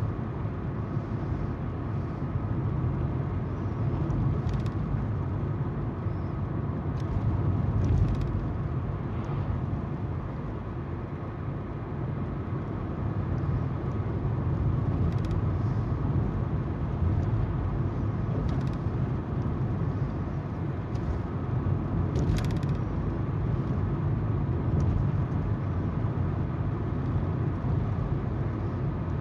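A car driving on the road: steady tyre noise and engine hum, with a few faint ticks scattered through.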